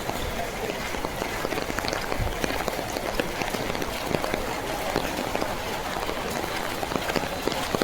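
Steady rainfall: an even hiss of rain with a dense, irregular patter of individual drops.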